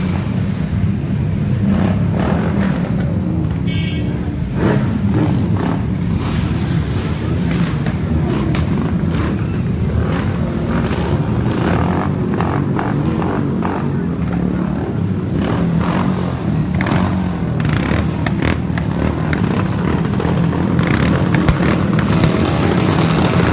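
Superbike engines running with a steady, loud rumble.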